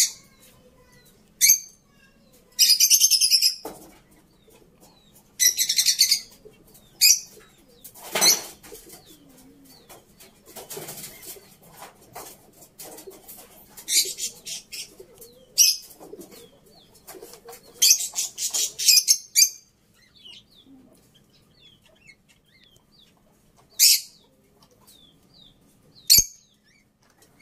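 Small birds chirping in short, high-pitched bursts, repeated with gaps, with some wing flapping in the middle.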